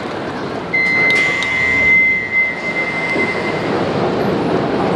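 Docklands Light Railway train running, with a steady rumble. A single steady high electronic tone sounds about a second in and lasts about three seconds.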